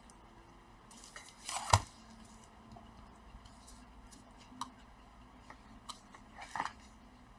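Scattered small clicks and taps of tools and hard plastic being handled during laptop keyboard work, with one sharper knock about two seconds in.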